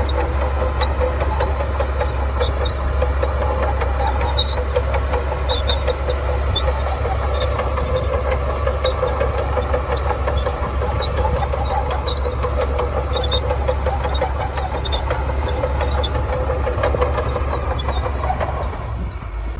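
Shantui DH17C2 bulldozer working, its diesel engine running steadily under a dense, rapid metallic clatter. The sound changes abruptly just before the end.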